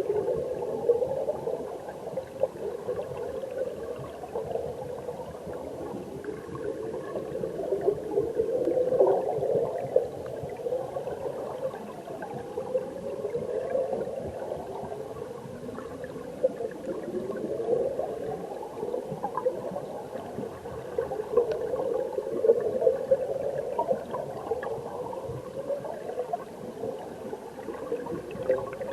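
Mountain stream heard underwater: flowing water gurgling and bubbling, with a steady stream of short rising chirps from bubbles.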